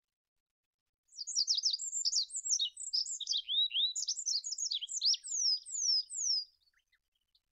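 Olive-backed pipit singing: one song of about five seconds made of rapid, thin, high notes that sweep up and down. It starts about a second in and ends with three downward-slurred whistles.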